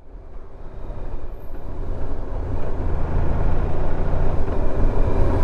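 Honda VFR1200X Crosstourer's V4 engine running under way with wind noise, getting steadily louder through the first few seconds.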